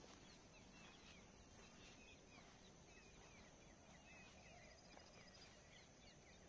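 Faint birds twittering in a quick run of short chirps over a low steady hiss; otherwise near silence.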